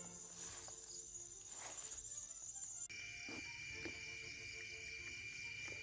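Crickets and other night insects calling in a steady high trill. About three seconds in the chorus cuts abruptly to a different, lower-pitched steady trill, with a few faint knocks after the change.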